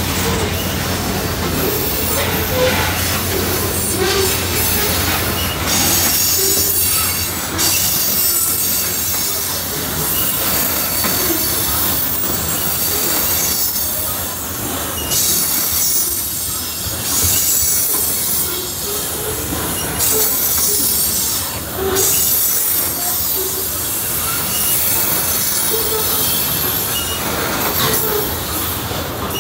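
Freight train tank cars rolling past at close range, their wheels squealing in long high-pitched stretches that come and go every few seconds over a steady rolling rumble. A deeper rumble from the passing train is heavier for the first few seconds and then fades.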